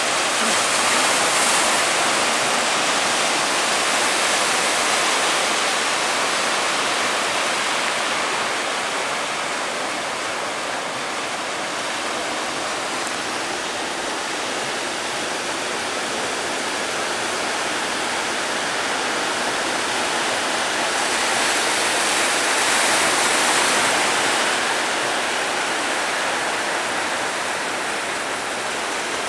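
Breaking sea waves, a steady rush of surf that swells louder twice: about a second in and again a little past the twenty-second mark.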